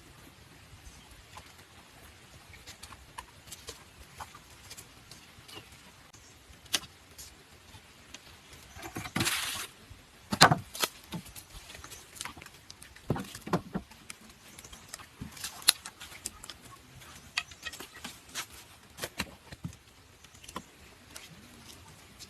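Hand-working bamboo: scattered taps and sharp knocks, with a short scraping rasp about nine seconds in.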